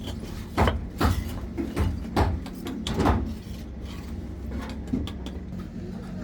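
Bricks knocking and clunking as they are handled and stacked, a string of separate knocks, most of them in the first three seconds, over a steady low hum.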